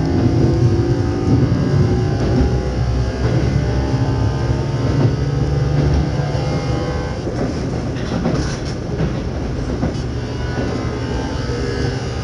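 Keio 8000 series electric train heard from inside the car, directly above its underfloor VVVF inverter: the inverter and traction motors whine in the first second or so, steady running noise follows, and there are clicks over the rail joints about two-thirds of the way in. The whine returns near the end.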